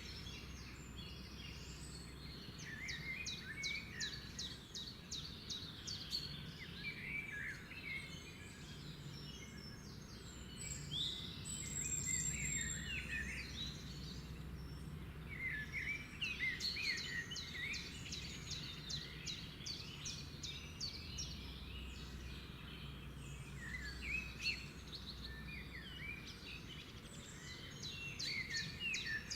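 Birds singing and calling: many quick chirps, trills and rapid runs of notes that come in spells with short lulls, over a low steady background rumble.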